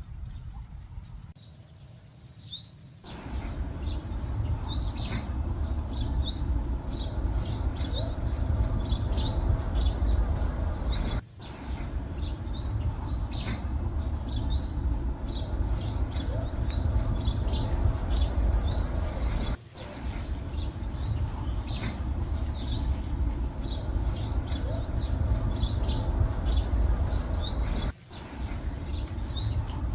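Many small birds chirping and tweeting together in quick, overlapping short notes, over a steady low rumble. The sound drops out briefly three times.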